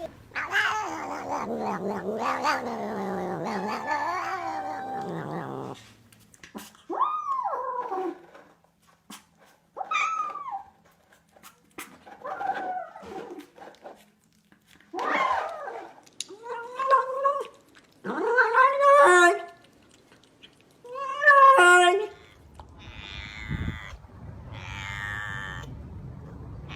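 Domestic cat yowling: one long wavering yowl lasting about six seconds, then a string of about seven short meowing calls, each rising and then falling in pitch. In the last few seconds there is a different, rougher call over a low rumble.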